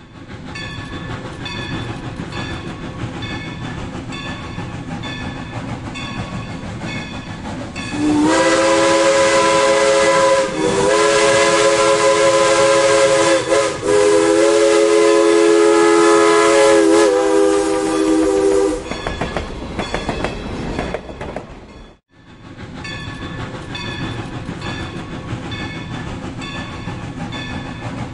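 Steam train running past with a steady rhythmic clickety-clack of wheels on rail joints. About eight seconds in, its steam whistle sounds a long, loud sequence of four blasts run nearly together, lasting about ten seconds. The sound drops out for a moment after it, then the train's rhythmic running carries on.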